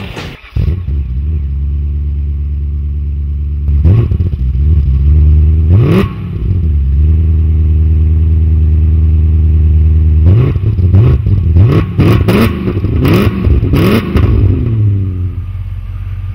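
BMW E39 M5's V8 engine idling and blipped several times: a quick rev twice, then a run of about five revs in a row before it settles back to idle.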